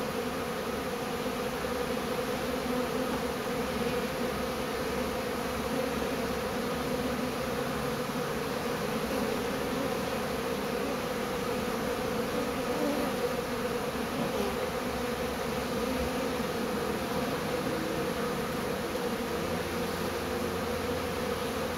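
A large honeybee swarm buzzing steadily at close range, many wingbeats blending into one continuous hum.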